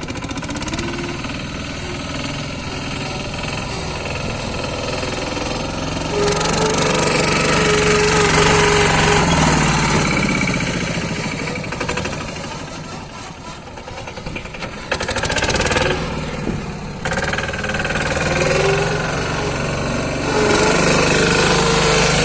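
Lombardini single-cylinder diesel engine of a pat pat two-wheel tractor running hard under load as it is forced up a steep bank. Its speed and loudness rise and fall in surges: strongest about a quarter of the way in, easing off a little past halfway, then surging again late on.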